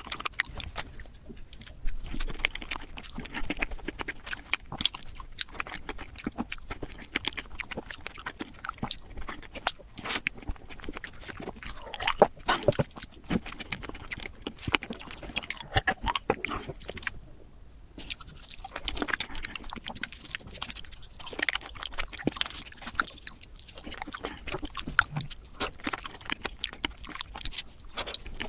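Close-miked chewing and biting of chocolate desserts, sped up so that the wet, sticky chews and crunches come as a dense, rapid run of clicks and crackles.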